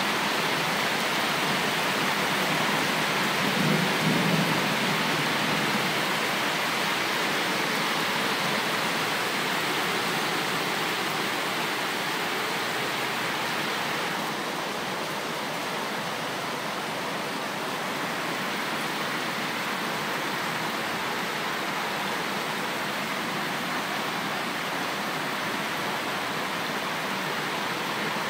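Heavy rain pouring steadily, with a short low rumble about four seconds in; the downpour eases slightly about halfway through.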